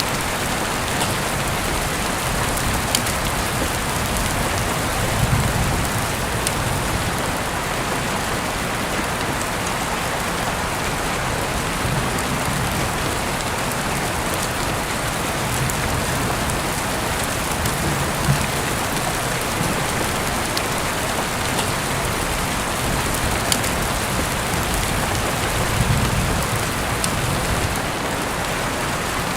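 Heavy rain falling steadily, with occasional sharper drip ticks standing out here and there.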